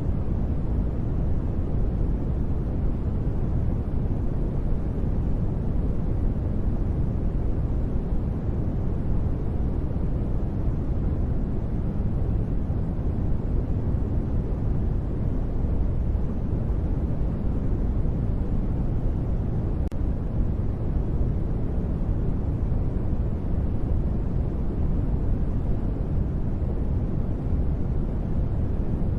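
Continuous, steady sleep noise (sold as white noise) that is weighted toward the low end, so it sounds like a deep, even rumbling hiss with no changes.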